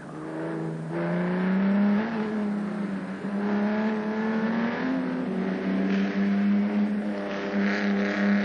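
Sports car engine running hard, its note rising over the first two seconds and then holding steady with small rises and dips.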